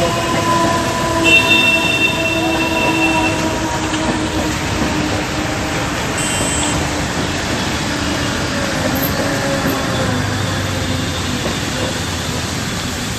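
A Mumbai suburban local electric train running on the track, a steady rumble with a motor whine whose pitch falls slowly. A high wheel squeal rings out about one to three seconds in.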